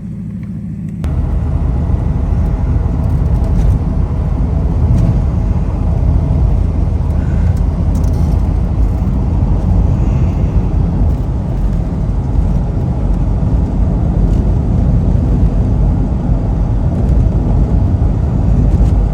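Jeep being driven: a steady, loud rumble of engine and road noise that starts abruptly about a second in.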